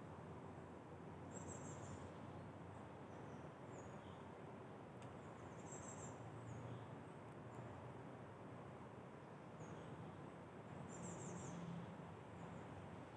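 A small songbird gives a short, very high-pitched trill three times, about five seconds apart, with a few faint single chirps between. Underneath is a steady, faint background rumble.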